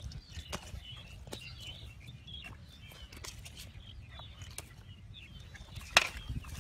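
Outdoor rural ambience: small birds chirping over a low rumble, with scattered light clicks and one sharp click near the end.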